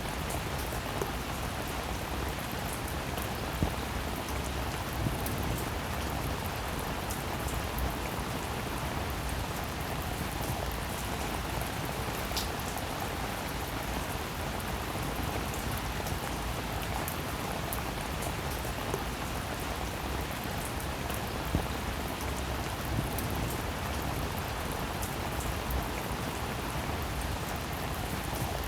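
Rain falling steadily, a continuous hiss with scattered sharper drop ticks.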